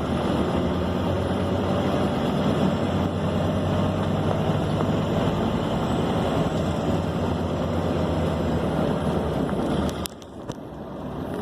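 Scania K270 bus's rear-mounted diesel engine and road noise heard from inside the cabin, running steadily. About ten seconds in, a sharp click comes and the sound drops away abruptly, then builds back up.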